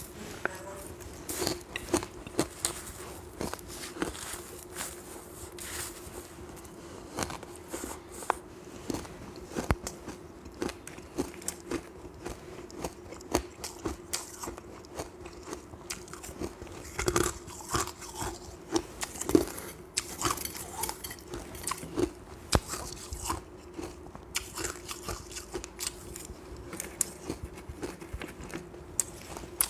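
A person biting and chewing ice, with many irregular sharp crunches close to the microphone. A faint steady hum runs underneath.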